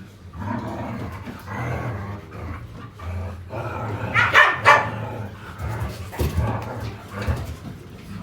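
Dogs barking and growling, with two loud barks a little past the middle.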